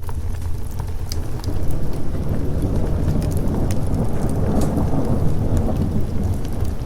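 Thunder rumbling over steady rain, the rumble swelling through the middle, with scattered sharp crackles throughout.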